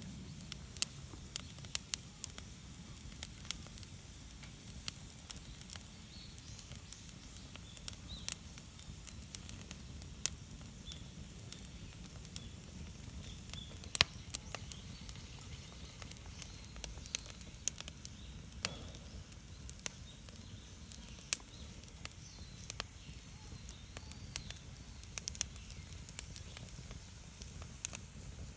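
Wood campfire crackling, with many sharp, irregular pops and snaps over a low steady rush.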